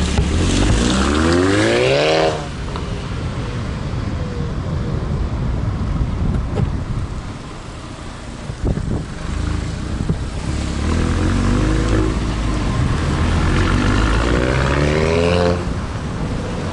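Volkswagen Scirocco R's turbocharged four-cylinder engine through an almost straight-piped exhaust with the resonator removed, revving up hard for about two seconds and then backing off to a low rumble. About ten seconds in it climbs again through a long rising pull for roughly five seconds before dropping off.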